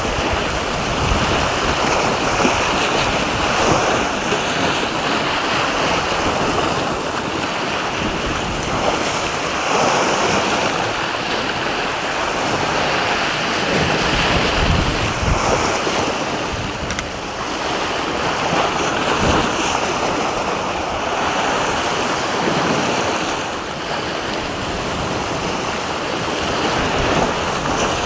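Sea waves washing and surging every few seconds, with wind buffeting the microphone.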